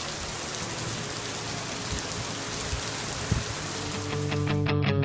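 Heavy rain pouring down steadily. Near the end the rain cuts off abruptly and guitar-driven music with a steady beat comes in.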